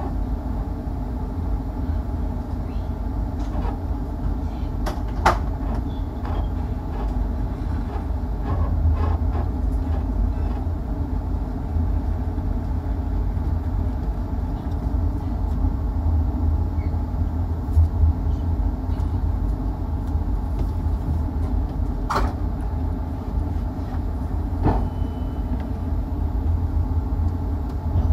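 Inside a 25G passenger coach moving off from a station: a steady low rumble of the wheels and running gear. A few sharp knocks stand out, the clearest about five seconds in and another about twenty-two seconds in.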